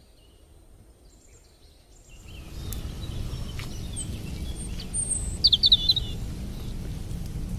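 Birds chirping, with a quick run of sharp chirps about two-thirds of the way through. About two seconds in, a steady low rumbling noise sets in beneath them, with a few faint clicks.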